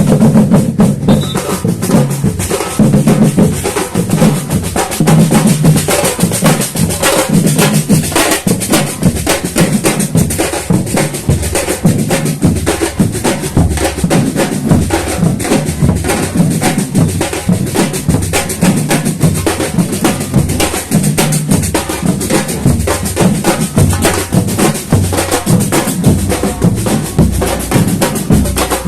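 Samba batucada drumming: a drum ensemble playing a loud, dense rhythm of bass drums and snare drums.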